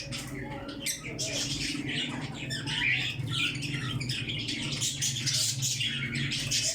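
A group of lovebirds chattering and squawking: rapid, high-pitched calls overlapping without a break.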